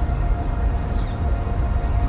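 A steady deep rumble with a few held tones over it, like the drone of an ambient documentary score.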